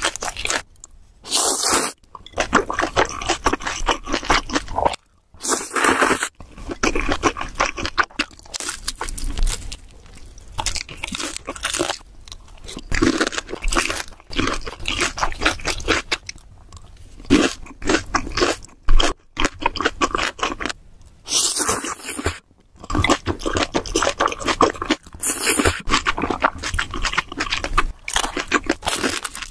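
Close-miked eating: a person biting and chewing crunchy fried food, with fast, crisp crunches packed close together. The sound breaks off abruptly for a moment several times.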